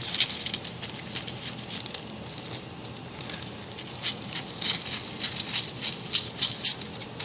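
Light, irregular clicking and rustling from hands handling a cake pan during baking preparation.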